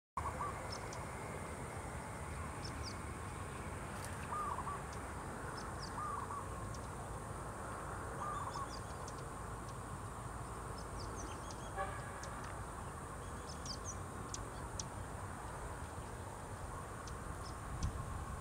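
Outdoor ambience: a steady low background rush, with a bird giving short calls every couple of seconds in the first half and other faint, high chirps scattered throughout.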